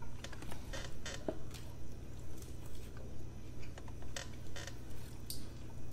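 People chewing mouthfuls of burger close to the microphone: soft, wet mouth clicks and smacks in a steady chewing rhythm.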